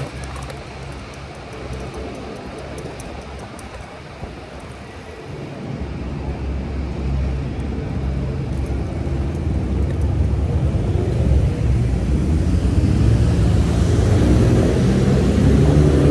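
Wind and road rumble while riding a fat-tire e-bike, growing louder from about six seconds in as speed picks up. Near the end a motor's pitched whine rises.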